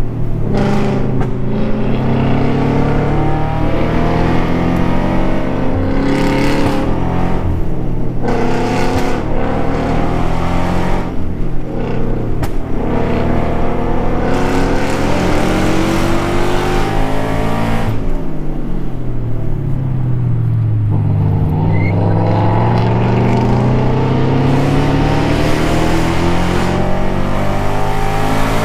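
Dirt bike engine under hard riding, its pitch repeatedly climbing and dropping with throttle and gear changes. About two-thirds through it slows to a low pitch, then climbs steadily again.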